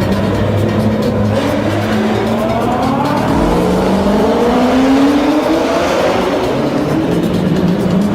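A high-performance car engine accelerating hard, its pitch climbing steadily for several seconds.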